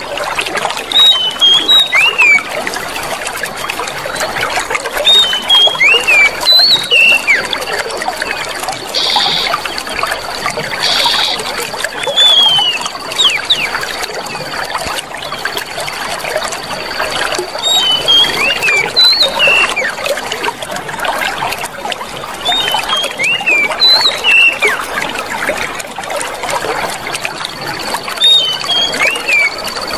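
Clear running water trickling and splashing steadily. Small clusters of short chirping bird calls recur about every five or six seconds, and a thin, steady high tone sounds through the middle and again near the end.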